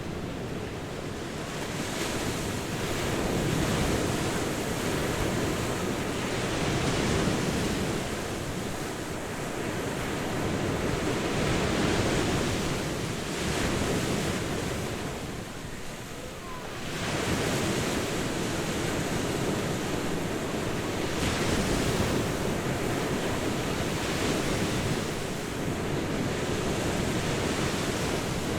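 Ocean surf breaking on a beach: waves swell and wash in every few seconds, with a short lull partway through, and some wind on the microphone.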